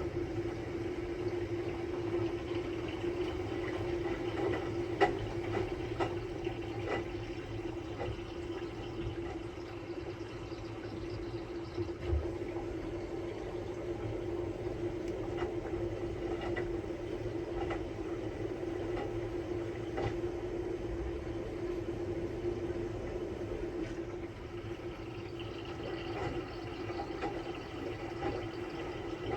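Samsung Bespoke Grande washing machine running its quick-wash cycle: a steady motor hum with water noise and scattered light knocks.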